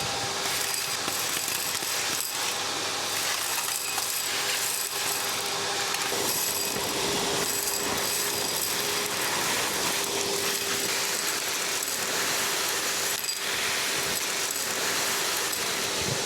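Gutter vacuum running steadily while sucking loose grout and grit out of patio joints, with small debris clicking through the hose.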